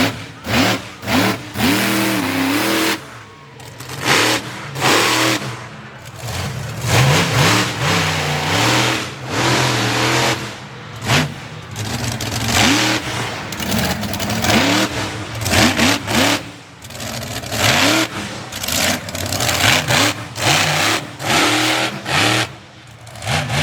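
Monster truck engine revved hard and repeatedly, its pitch climbing and falling over and over as the throttle is opened and snapped shut, with frequent sudden drops in loudness.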